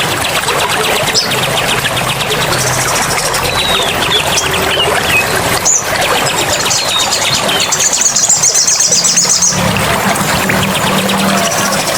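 Several songbirds singing at once, fast repeated trills and chirps, with a brighter buzzing trill about eight seconds in, over a steady rush of running water.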